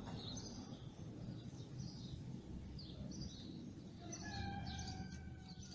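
Caged songbirds chirping faintly: scattered short, high calls. From about four seconds in a faint steady tone with overtones runs under them for a second or two.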